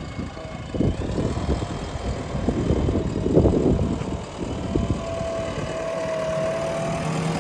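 Diesel engine of a JCB earthmoving machine running, with irregular clanks and knocks over it; about five seconds in, a steady hum comes up over the engine.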